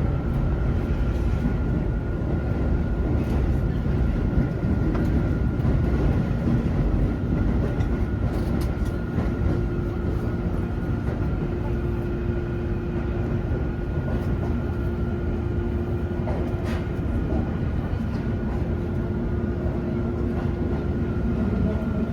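Running noise heard inside a Keio 9000 series trailer car, which has no traction motors. A steady low rumble of the wheels on the rails is joined by a faint steady high tone and a few sharp clicks.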